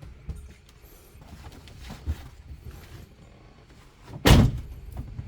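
A few light knocks and clicks, then a single heavy thump about four seconds in, like something being shut.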